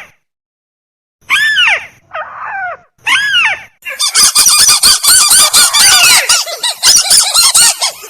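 Recorded calls of a rail (burung tikusan), played as a bird-trapping lure: three loud arching calls with a gap between each, then from about four seconds in a fast chattering run of calls, roughly five a second.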